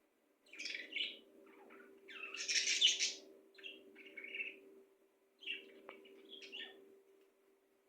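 A bird chirping and calling in several short bouts of quick chirps, the loudest about two to three seconds in.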